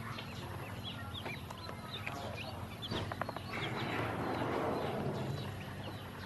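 Many ducklings peeping in short, high chirps, with a rushing noise swelling and fading in the middle.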